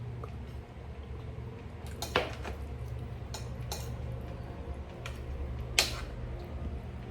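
Cutlery clinking against a plate while eating, with two sharper clinks about two seconds in and near six seconds and a few lighter taps between, over a steady low hum.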